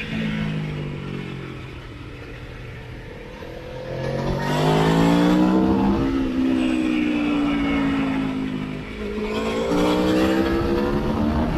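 Motorcycle engine heard from on board over wind rush. The revs fall off at first, then climb hard about four seconds in. They drop with an upshift about two seconds later, ease down, and climb again after a second shift near the end.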